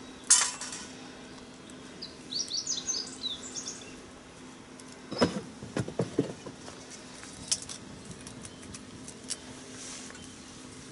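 A small bird calling: a quick run of short, high chirps about two seconds in. There is also a sharp click just after the start and a few knocks around the middle.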